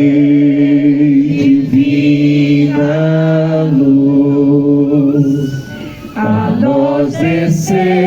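Voices singing a slow Catholic devotional hymn, long notes held for a second or more each, with a short break about six seconds in.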